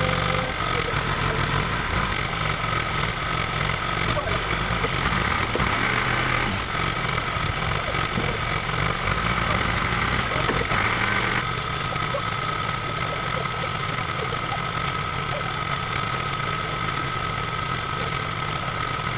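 An engine idling steadily, with a constant whine over its low rumble.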